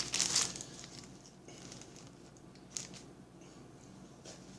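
A sandwich wrapper crinkling briefly as it is handled open, then faint rustling with a few soft clicks.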